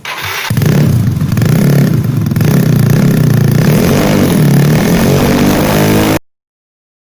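Bored-up 200 cc Yamaha Mio scooter engine running loud through a Tridente Ronin Katana free-flow racing exhaust. It comes up sharply at the start and cuts off suddenly about six seconds in.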